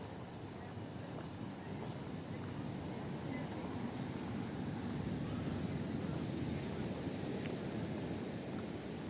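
Steady low rushing outdoor noise with no distinct events, growing a little louder about halfway through.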